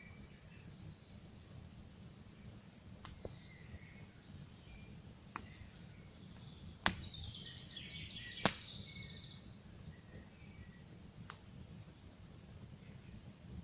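Wood campfire crackling with a low steady rumble and about five sharp pops, the loudest two near the middle, while small songbirds chirp and twitter throughout, most busily around the middle.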